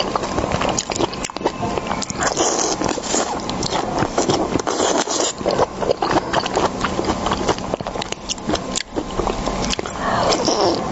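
Close-miked eating sounds: seafood being chewed and bitten, a dense, irregular run of small clicks and crackles.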